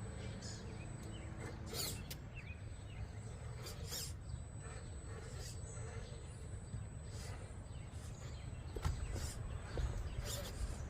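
Quiet outdoor background: a steady low rumble with birds calling faintly and a few scattered light clicks and knocks.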